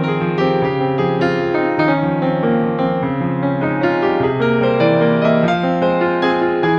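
Background piano music: a gentle melody of notes over a steady accompaniment.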